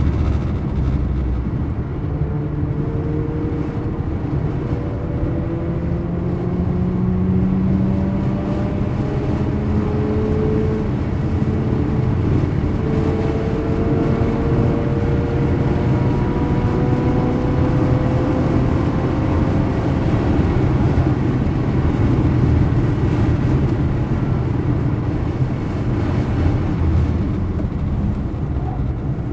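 Mazda RX-8's rotary engine heard from inside the cabin at track pace, its pitch climbing steadily under acceleration, then easing off and climbing again about halfway through, over constant road and tyre noise.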